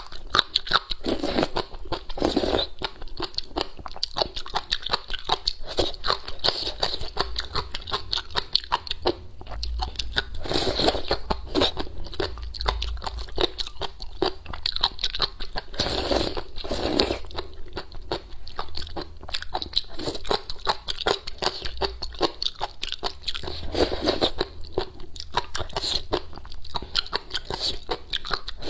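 A person chewing crisp spicy shredded papaya with rice porridge: a continuous run of crunches, with several louder stretches.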